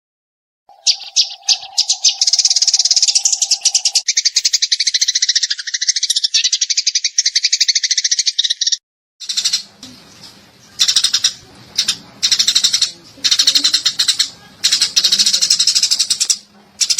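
Eurasian tree sparrow song: dense, very rapid chirping in fast trills, starting about a second in. It cuts off briefly about halfway, then comes back as a run of separate chirping bursts.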